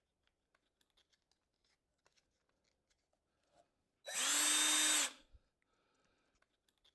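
Die grinder fitted with a 2-inch quick-change abrasive disc, triggered for a single burst of about a second at full speed before it cuts off and winds down. Faint clicks of the tool being handled come before it.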